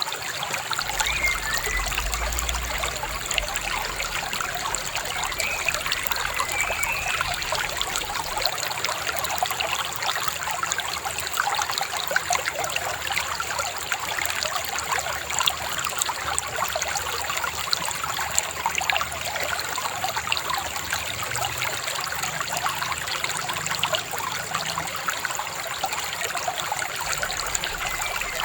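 Shallow river babbling and trickling over stones, a steady splashing flow with no letup.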